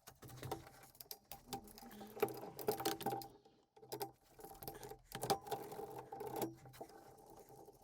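Irregular metallic clicks, clinks and knocks of hand tools working on bolts, some with a short ring.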